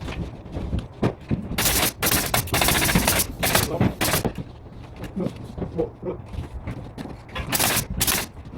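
Pneumatic nail gun firing into wood: a cluster of sharp shots from about one and a half to four seconds in, then two more near the end.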